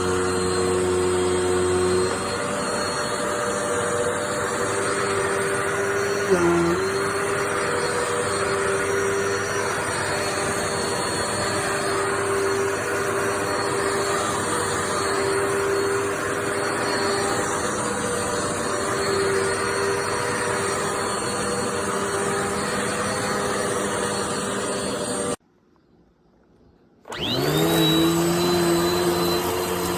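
Dirt Devil Multi-Surface+ upright bagless vacuum cleaner running with a steady motor whine, its tone shifting slightly a couple of seconds in. Near the end it cuts out for about a second and a half, then starts again, the whine rising as the motor spins back up.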